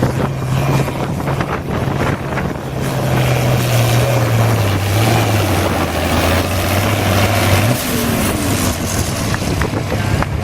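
International Harvester 966 pulling tractor running hard under load as it drags the sled down the track, its engine note stepping down in pitch partway through as the load builds, then dropping away near the end.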